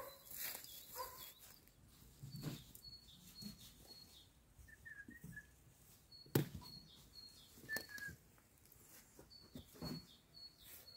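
Faint birdsong: short high chirps repeated in small runs, with a few lower chirps between. A sharp knock a little past halfway is the loudest sound, and a few softer knocks follow.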